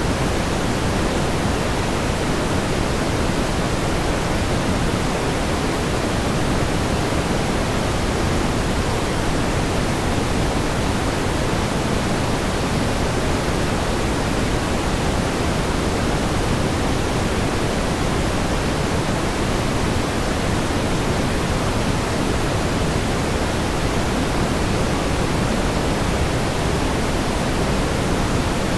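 Steady pink noise: an even, unchanging hiss, fuller in the low and middle range than in the highs.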